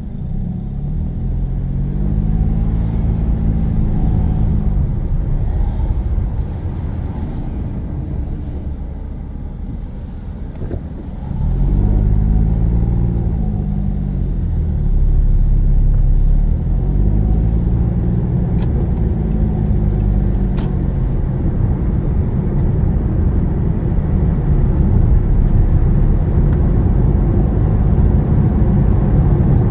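Car engine and road rumble heard from inside the cabin while driving. The engine pitch rises and falls three times as the car pulls away and changes speed, and the sound gets louder about eleven seconds in.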